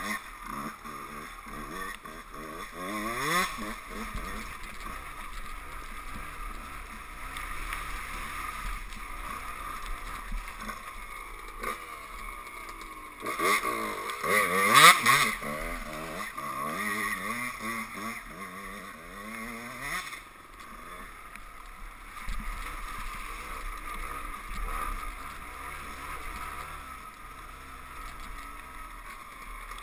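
Two-stroke 125 cc enduro motorcycle engines riding off-road, the revs rising and falling again and again with throttle and gear changes. There is a louder surge of revving a little after halfway.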